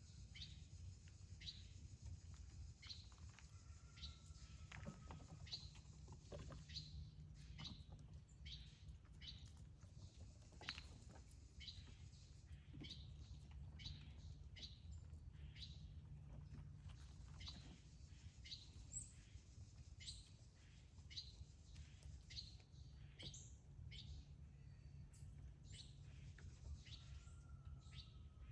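Faint, regular high chirps from a small bird, one a little more often than every second, over a low steady hum.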